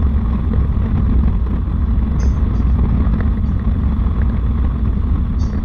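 Harley-Davidson motorcycle running on the road, with a steady low wind rumble on the microphone.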